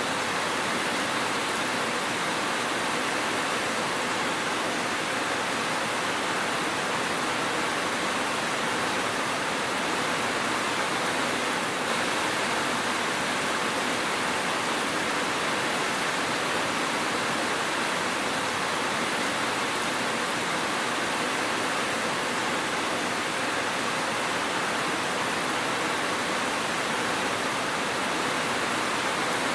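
Steady rainfall, an even hiss with no thunder or separate drops standing out.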